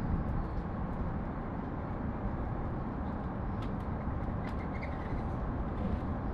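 Steady low rumble of city traffic, with a few faint, short high chirps from small birds a little past halfway.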